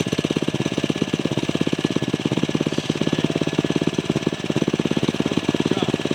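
Go-kart's small single-cylinder engine idling with a rapid, even putter.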